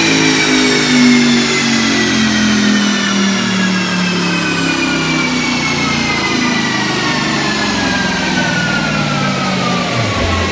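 Audi R8's 4.2-litre V8 running on a chassis dyno through a Milltek exhaust, with a high whine that falls steadily in pitch as the engine, wheels and rollers slow down after a power run.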